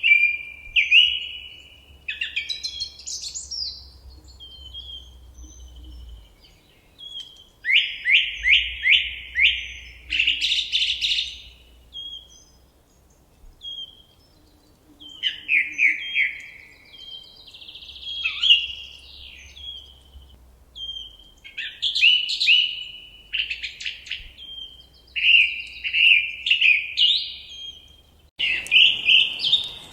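A songbird singing loud, varied phrases, each a quick run of repeated descending notes, some with a higher flourish, with short pauses between phrases. A faint hiss comes in near the end.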